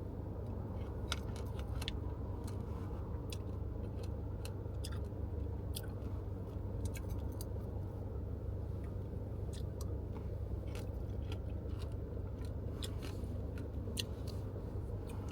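Close-up chewing of pomegranate seeds: many small, irregular crunches and clicks over the steady low rumble of a car cabin.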